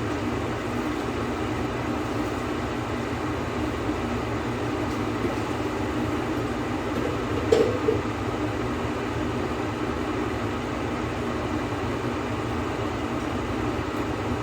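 Steady mechanical hum or fan-like background noise, with a short clatter like an object being set down about halfway through.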